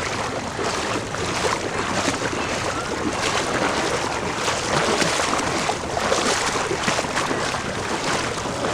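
Floodwater sloshing and splashing in a steady, irregular run of small splashes, as of wading through deep standing water.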